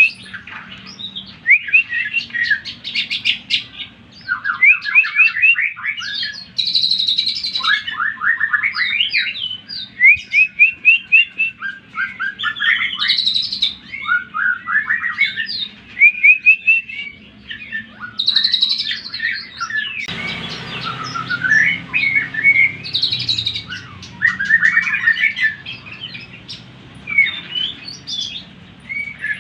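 Cucak ijo (green leafbird) singing a fast, varied song of rapid trills, rising and falling chirps and whistled phrases, one burst after another. It is a provocation song used to rouse other cucak ijo. Low background noise grows louder about two-thirds of the way through.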